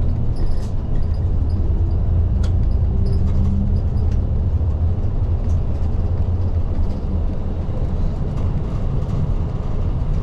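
Isuzu Erga city bus running, heard from inside the cabin: a steady low engine and road rumble with light rattles and clicks, easing slightly about seven seconds in.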